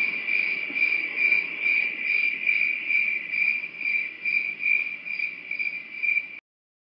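Cricket chirping: a steady, high, pulsing trill of about two to three pulses a second, which stops abruptly about six seconds in.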